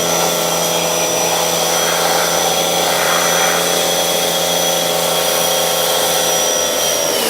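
Pressure washer running steadily with its water jet hissing. The motor's whine spins up at the start and winds down as it cuts off near the end.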